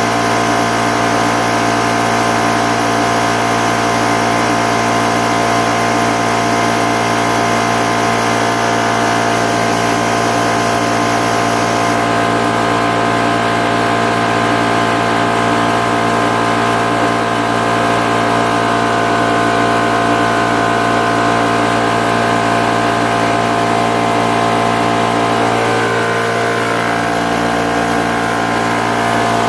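High-pressure PCP air compressor running steadily with an even mechanical hum, its pitch shifting slightly about four seconds before the end.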